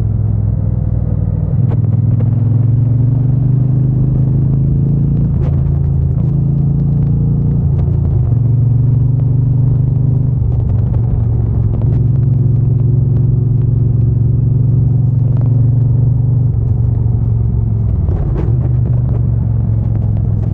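Triumph Bonneville T120's 1200 cc parallel-twin engine and exhaust under way. The note climbs and drops back several times as the bike accelerates and shifts gear.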